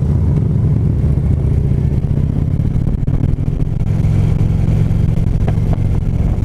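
Harley-Davidson V-twin motorcycle engine running steadily while riding on the road, heard from the bike itself.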